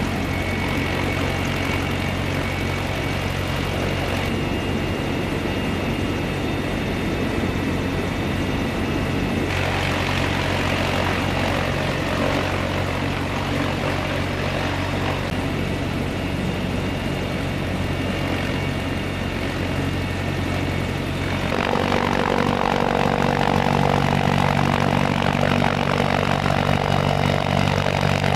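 Sikorsky CH-53E Super Stallion heavy-lift helicopter running, a steady drone from its three turbine engines and rotors. About twenty seconds in it grows louder and higher tones join in.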